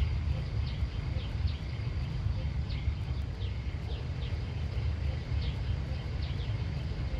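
Outdoor field ambience: a steady low rumble with short, high, falling chirps from a small animal repeating about twice a second.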